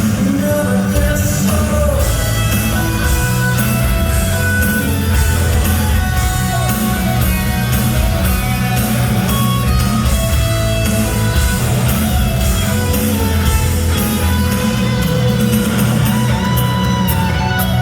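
Live heavy rock band playing, with electric guitar, bass, drums and a singer's voice, loud and continuous.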